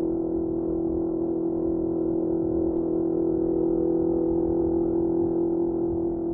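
Honda CBR650R's inline-four engine through a Mivv MK3 exhaust, running at a steady pitch, giving a held, even note with a rumble of road and wind noise beneath it.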